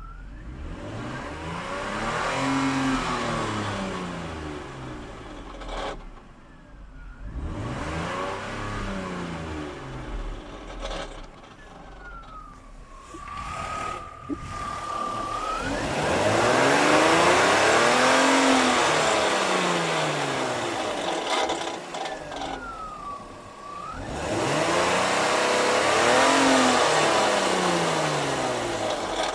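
BMW E39's M54 2.2-litre straight-six engine revved up and back down four times, with a steady high whine at idle between the revs. The owner suspects the noise may come from the dual-mass flywheel or a connecting-rod bearing.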